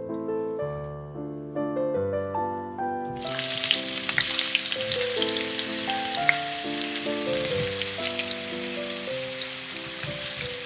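Food starting to sizzle in hot oil in a frying pan about three seconds in, then crackling on steadily, over soft piano music.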